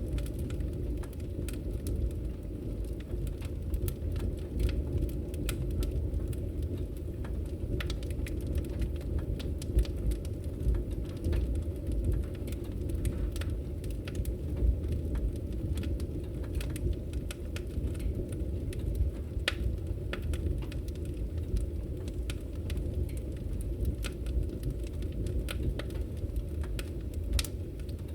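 Wood fire crackling in a fireplace: scattered sharp snaps and pops over a steady low rumble of the burning logs.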